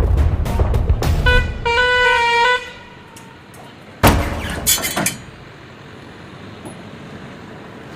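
A vehicle horn sounds for just over a second over a heavy low rumble. About four seconds in there is a sharp bang, followed by a few knocks.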